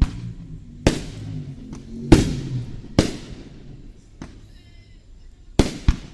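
Aerial firework shells bursting: about six sharp bangs, each trailing off in an echo, the loudest about two seconds in and the last two close together near the end.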